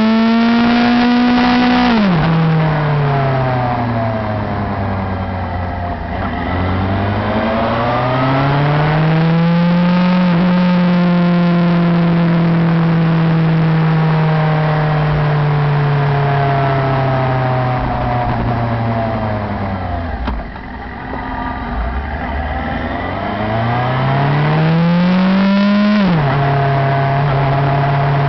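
Motorcycle engine recorded close up from the handlebars on a ride: it speeds up with a rising pitch, drops sharply in pitch at each gear change, winds down twice as the bike slows, and pulls away again.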